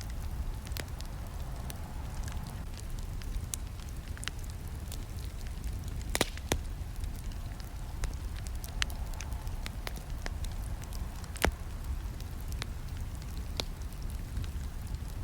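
Campfire crackling: burning wood gives off irregular sharp pops and snaps over a steady low rumble, with two louder pops about six and eleven seconds in.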